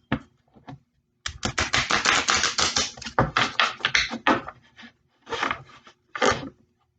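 A deck of tarot cards being shuffled: a quick run of papery clicks for about three seconds, then two short shuffles near the end.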